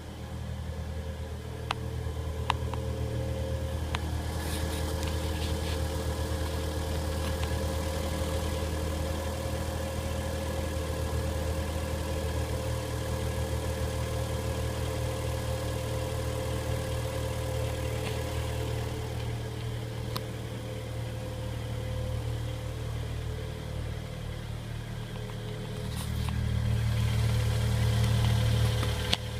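Car engine idling steadily after a cold start at about 12 °C, with a few sharp clicks in the first seconds. Near the end the engine note grows louder for a few seconds.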